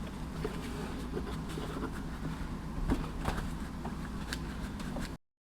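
Low steady room hum with a few faint, sparse clicks, cutting to dead silence about five seconds in.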